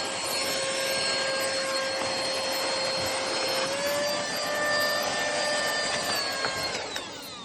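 Cordless handheld vacuum cleaner running: a steady rush of air with a high motor whine. Near the end the whine falls in pitch and fades as the motor winds down.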